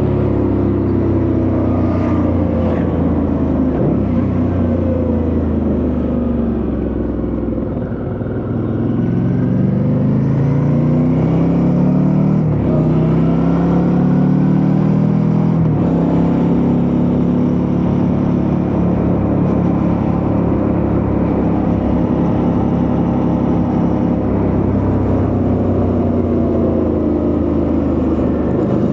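Suzuki V-Strom 650's V-twin engine heard from the bike while riding: the engine note falls as it slows. It then accelerates through two upshifts, a rising note that drops sharply at each shift, and settles into a steady cruise for the rest of the time.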